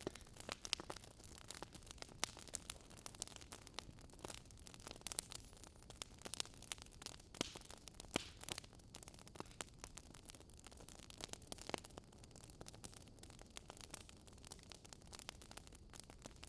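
Wood fire crackling: irregular sharp cracks, several a second, over a faint steady hiss.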